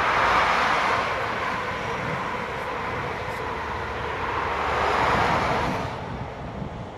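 A Class 43 HST high-speed diesel train passing at speed, its power-car engines and the wheels of its coaches on the rails. The sound is loudest as the leading power car goes by at the start, eases as the coaches pass, swells again as the rear power car passes about five seconds in, then fades away.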